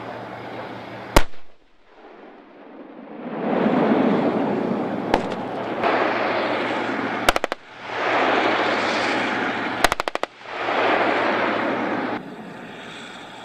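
Gunfire during a live-fire exercise: single sharp reports and short rapid bursts of several shots, with long loud rushing stretches between them.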